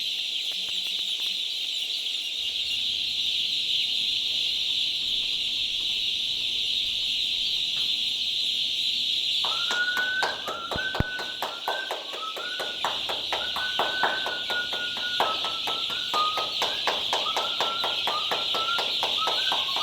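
Newly hatched chicks peeping continuously, heard as a high-pitched haze. About halfway through, a person starts clapping rapidly, three or four claps a second, and whistling a high note to call the chicks over.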